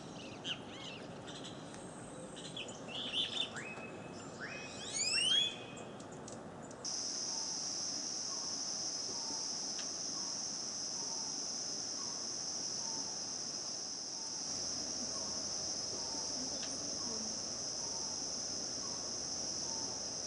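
Tropical forest birds calling, with quick rising and falling whistled notes, the loudest a run of rising calls about five seconds in. About seven seconds in, it cuts abruptly to a steady, high insect drone from cicadas or crickets that runs on, with faint short calls repeating about twice a second beneath it.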